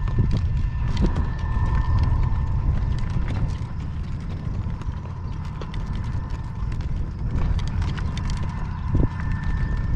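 Driving horse's hooves clip-clopping as it pulls a cart, under a heavy rumble of wind on the microphone. A faint steady whine runs underneath.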